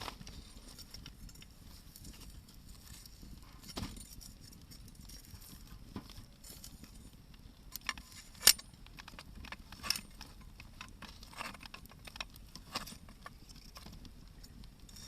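Hardwood firewood burning in an open campfire, crackling with irregular sharp pops over a low steady hiss. The loudest pop comes a little past the middle.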